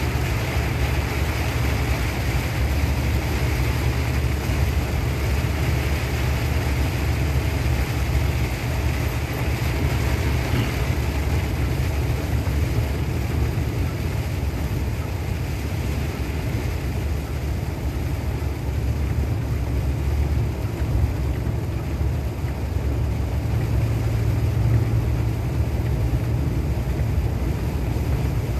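Heavy rain pouring steadily, with a steady low rumble underneath.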